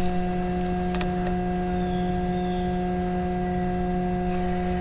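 Steady electrical hum: one low tone with its evenly spaced overtones and a thin high whine above it, unchanging, with a single sharp click about a second in.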